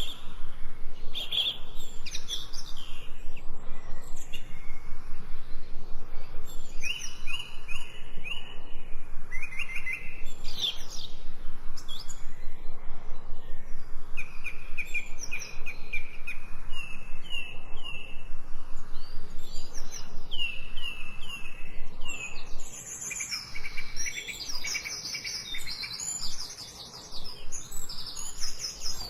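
Several songbirds singing, with runs of short repeated whistled notes and trills, over a steady background hiss.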